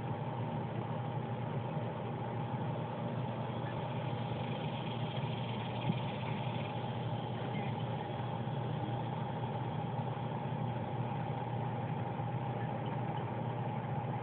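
A steady mechanical hum, a low drone with a fainter higher steady tone over it, like a motor or engine running continuously.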